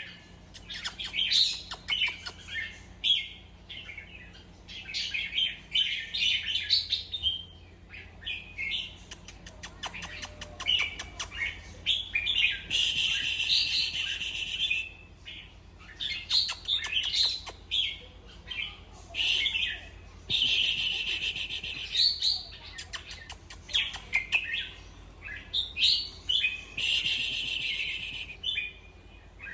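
Red-whiskered bulbul singing, short phrases repeated over and over with brief gaps, with three longer, harsher bursts about halfway through and near the end. A faint steady low hum runs underneath.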